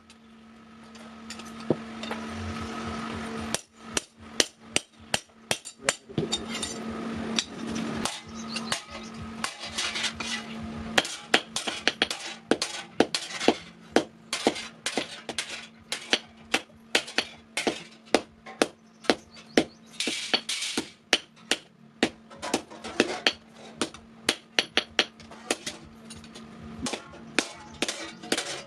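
Hammer blows on metal against an anvil while a sickle blade is forged, coming about two a second with ringing clinks. A rushing noise builds over the first few seconds and stops suddenly, and a steady hum runs underneath.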